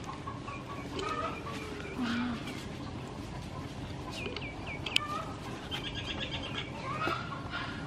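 Small birds chirping in the background: a quick run of high chirps about halfway through and a fast trill a little later, with a single sharp click about five seconds in.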